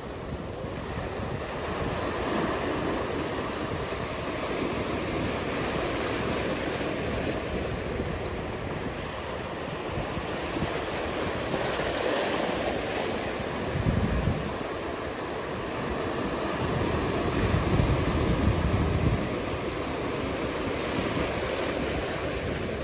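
Ocean surf washing continuously, with wind buffeting the microphone in low rumbling gusts, once about halfway through and again for a couple of seconds later on.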